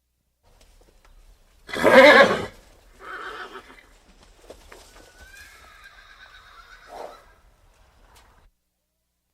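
Horse neighing: a loud, short call about two seconds in, then a fainter, high, drawn-out whinny a few seconds later.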